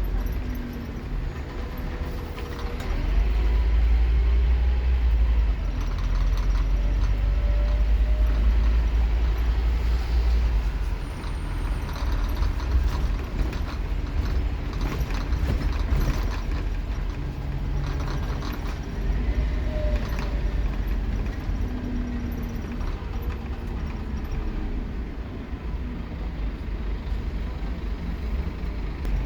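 Scania K230UB Omnilink bus's diesel engine heard from on board, pulling hard and louder from about three seconds in, then easing back about ten seconds in. Rising and falling whines come through along with cabin rattles.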